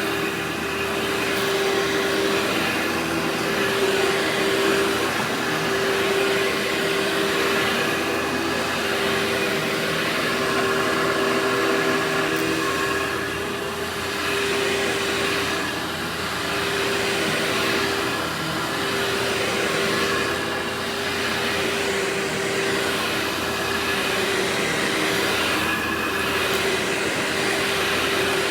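Workhorse vacuum cleaner running steadily: rushing air over a constant motor hum, with loudness swelling and dipping slightly every few seconds.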